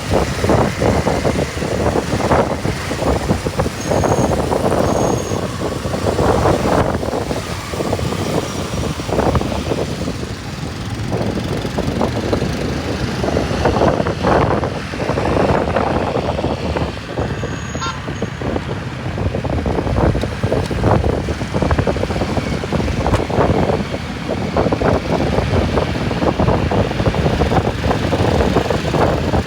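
Motorcycle running on the move through city traffic, its engine and road noise rising and falling in level.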